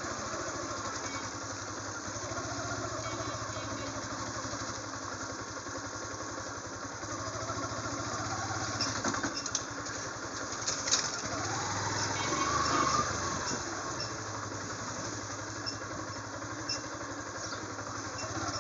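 Motorcycle engine running steadily while being ridden along a road. About twelve seconds in, another vehicle swells louder and passes.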